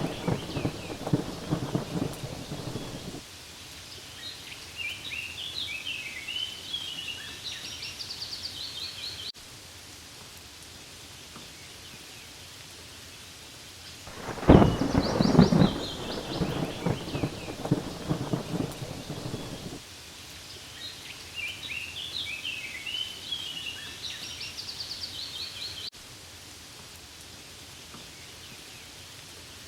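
Steady rain with rolls of thunder: a rumble fading out about three seconds in, then a louder roll about halfway through lasting some five seconds. Between the rolls come brief clusters of short high chirps, and the whole pattern repeats about every fifteen seconds, like a loop.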